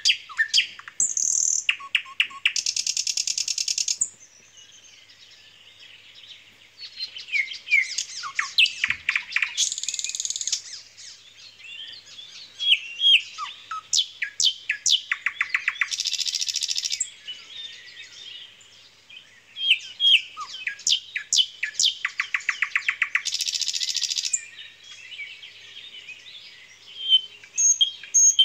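Songbirds singing: a phrase of rapid trills followed by a high buzzy run, repeated about every six to seven seconds, with scattered chirps in between.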